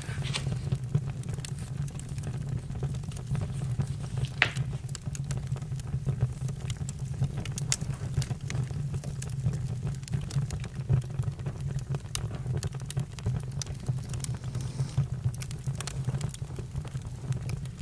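Campfire crackling: a steady low rumble of burning with frequent small pops and snaps, one sharper snap about four and a half seconds in.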